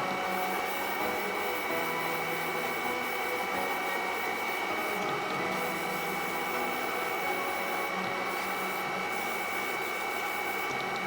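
Airbrush setup running steadily: the hum of a small hobby air compressor with the hiss of air and paint spraying.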